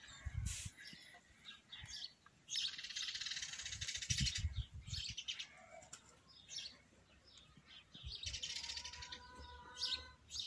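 Faint birds chirping, with two stretches of rapid high trilling, one about two and a half seconds in and another near the end. A few soft low bumps come in between.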